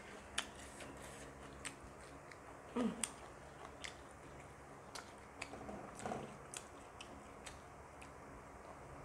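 Close-up eating sounds of people chewing and biting soft steamed chicken momos, with scattered short sharp clicks. The loudest cluster comes about three seconds in.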